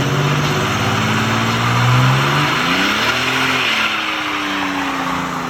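A car engine running hard, with a strong hiss over it. Its pitch dips about two and a half seconds in, climbs again, then eases down toward the end.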